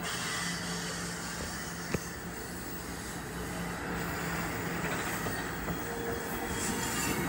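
NJ Transit train running along the rails: a steady rumble of wheels on track with a low hum, one sharp click about two seconds in, and the sound growing louder toward the end.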